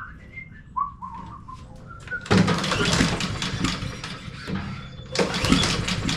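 Honda HRR216 push mower's engine being pull-started twice, the recoil starter spinning it over without it catching; a mower that sat all winter and won't start.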